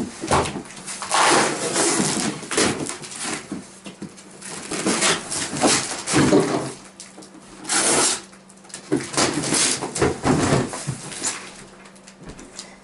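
A large cardboard box being torn and wrestled open, with irregular bursts of ripping, scraping and rustling of cardboard and packing material as a boxed swivel stool is pulled free.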